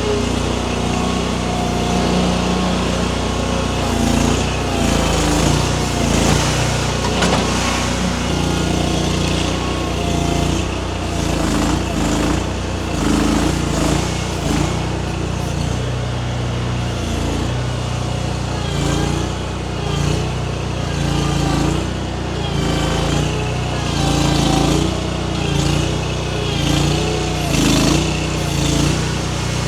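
Mini skid steer's small engine running steadily while it works its hydraulic grapple, its pitch and loudness stepping up and down every second or two as the load changes.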